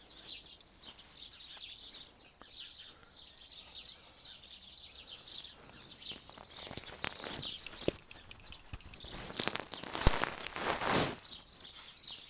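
Aerosol chain lube sprayed onto a motorcycle chain in short hissing bursts with a few clicks, the longest and loudest burst about ten seconds in. Birds chirp faintly in the background during the first half.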